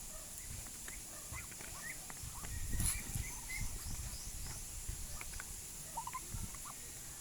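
Farm poultry calling: scattered short calls, with a quick run of small rising chirps a little after three seconds in. A sharp knock comes just before that.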